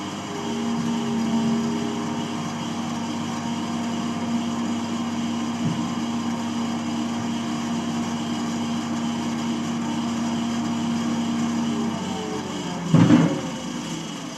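Baler running through its cycle: a steady machine hum with a held tone for about eleven seconds. The tone stops, and a single loud clunk follows about a second later.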